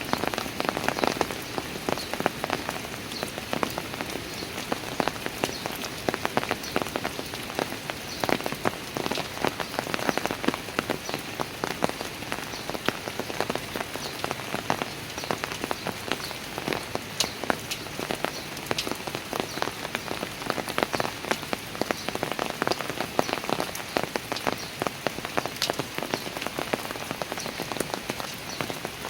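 Steady rain falling on outdoor stairs, a dense patter of many individual drop impacts over a continuous hiss.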